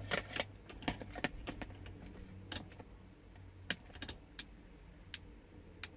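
Irregular small plastic clicks and taps from handling the mini RC toy tank's drive parts, several in quick succession in the first two seconds, then sparser.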